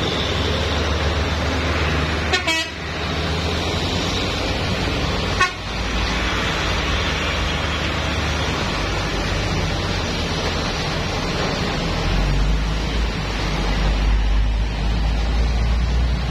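Heavy truck traffic: steady engine and road noise, with short horn toots about two and a half seconds in and again about five and a half seconds in.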